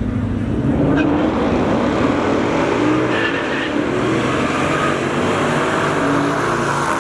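Race car engine accelerating hard down the track, its pitch climbing over the first few seconds.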